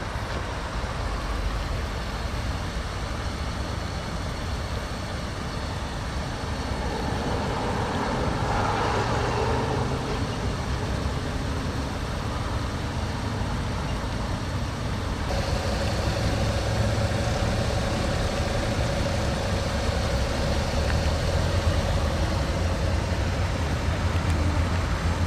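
A 2006 Mazda 6's 2.0-litre inline-four idling steadily. About two-thirds of the way through, a steady higher tone joins in.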